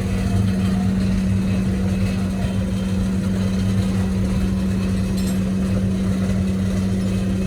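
Steady mechanical hum of a running workshop machine, holding one low pitch over a rumble.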